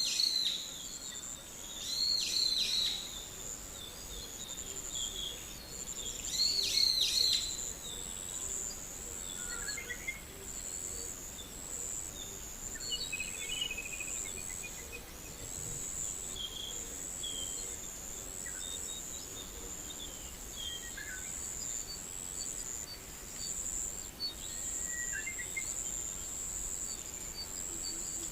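Forest insects trilling steadily at a high pitch, with birds calling over them: three loud, arching calls in the first eight seconds, then scattered softer chirps.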